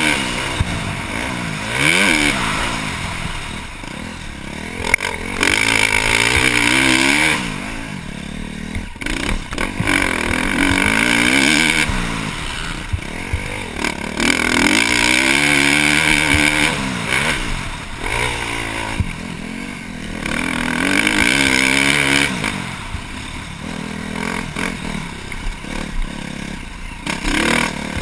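2012 KTM 350 SX-F motocross bike's four-stroke single, fitted with a Yoshimura exhaust, ridden hard: the revs rise and fall over and over, with a loud burst of throttle every few seconds between quieter stretches of rolling off.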